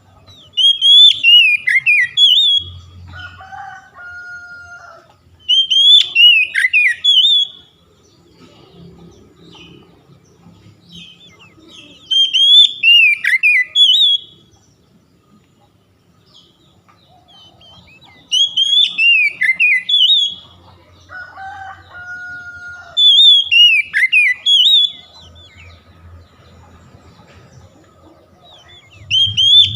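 Oriental magpie-robin (kacer) singing loud, rich whistled phrases of about two seconds each, repeated every five or six seconds: a song played to provoke a caged kacer into singing. A lower two-note call comes twice, early and again in the second half.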